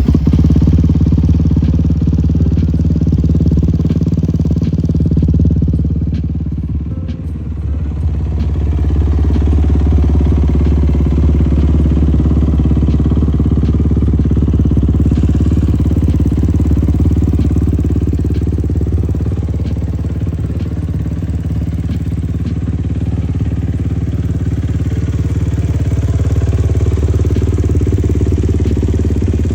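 Engine running steadily at idle right after a cold start, with a strong low rumble. It dips briefly about seven seconds in, then settles back to an even idle.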